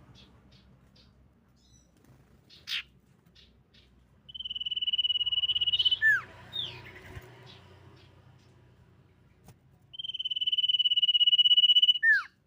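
Common iora song: a sharp single note, then a long, high trill held at one pitch that swells in volume and ends in a quick down-slurred whistle. The phrase comes twice.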